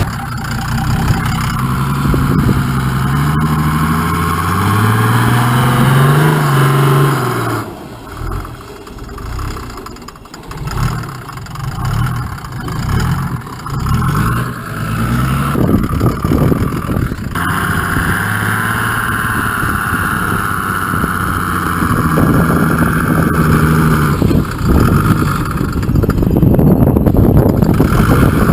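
Mercedes OM603 straight-six turbo diesel in a 1941 GMC CCKW 6x6 army truck driving in snow: the engine revs up under load for the first seven seconds or so, then drops off throttle and surges on and off, before pulling steadily with a high whine and getting louder again near the end.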